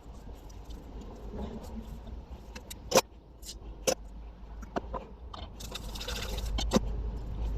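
Small objects being handled and set down: scattered sharp clicks and knocks, the loudest about three seconds in, with a short hiss about six seconds in over a low background hum.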